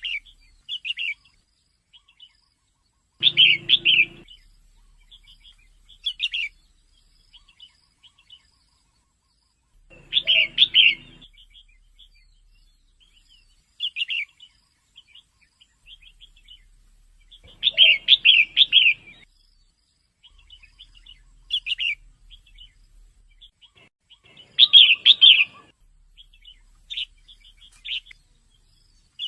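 Female red-whiskered bulbul calling in short bursts of quick chirps. A louder cluster of several chirps comes about every seven seconds, with softer single chirps in between.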